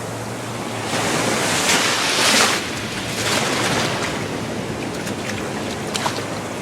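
Waves breaking and washing up the beach, swelling about a second in and peaking around two and a half seconds, then again a little later, with wind on the microphone.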